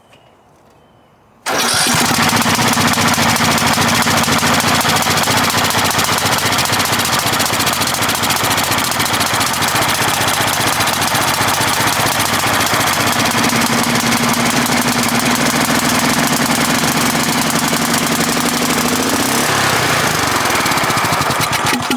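Cub Cadet 1170 riding mower's 17.5 hp OHV engine starting suddenly about a second and a half in and running steadily, then slowing with falling pitch near the end. It is running flooded, as the owner judges from heavy smoke after the carburetor rebuild.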